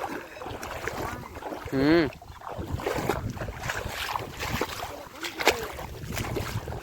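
Water sloshing and splashing with wind buffeting the microphone, over a low rumble. About two seconds in, a short wavering shout cuts across it.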